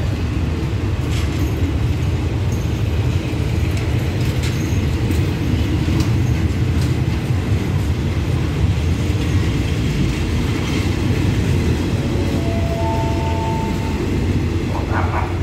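Passenger train coaches rolling past the platform: a steady low rumble with scattered wheel clicks. About two-thirds of the way through, a brief two-note tone sounds.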